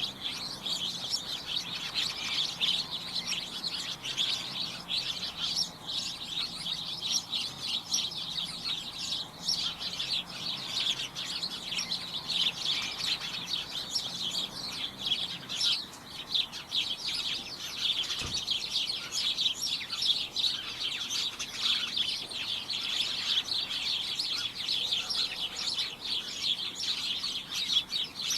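A flock of small birds chirping together: a dense, continuous, overlapping chatter of short high chirps with no pause.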